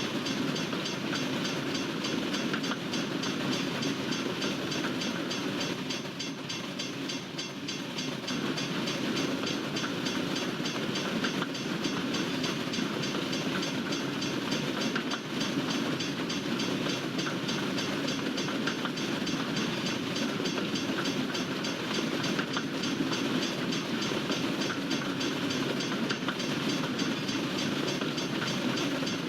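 Freight train cars rolling past at a crossing: a steady rumble of steel wheels on the rails with rapid, continuous clicking, easing slightly about six seconds in.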